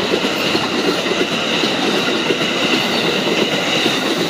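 A long, slow train rolling past a grade crossing, a loud steady rumble and rattle of the wheels on the rails with a steady high-pitched whine over it.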